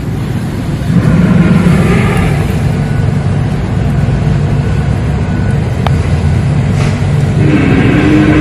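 Humpback whale song recorded underwater: a low, steady drone with fainter higher calls over it near the start and again near the end.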